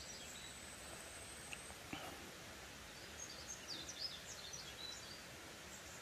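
Faint outdoor background of a wooded hillside with scattered bird chirps, most of them about three to five seconds in.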